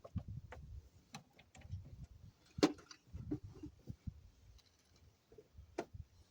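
Irregular light clicks and knocks from hands handling tools and loose parts, two sharper knocks about two and a half seconds in and near the end.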